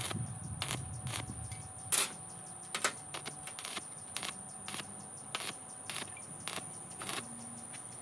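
Irregular light clicks and knocks, roughly one or two a second, over a faint steady high whine. The loudest knock comes about two seconds in.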